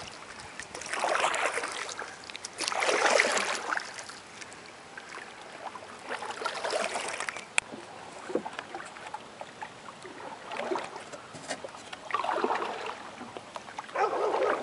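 Canoe paddle strokes in lake water. A swishing splash comes every couple of seconds, with quieter water trickling between the strokes.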